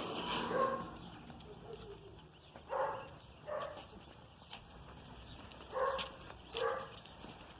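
A dog barking in pairs of short barks, about three pairs a few seconds apart.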